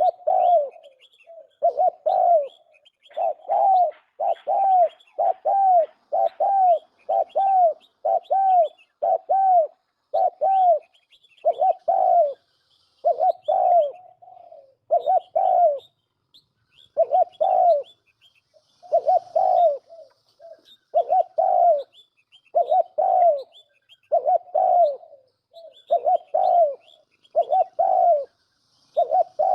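Turtle dove cooing over and over, short arched coos about one a second with a few brief pauses, and faint high chirps above them.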